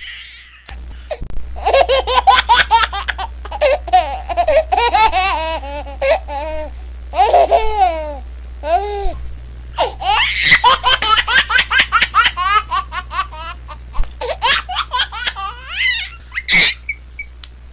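A baby laughing hard in quick bouts of high-pitched giggles, with a few long, gliding squeals around the middle and short breaths between bouts. A steady low hum runs underneath.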